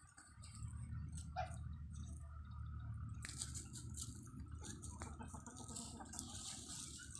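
Chickens clucking over a steady low rumble, with a crackly high rustle joining about three seconds in.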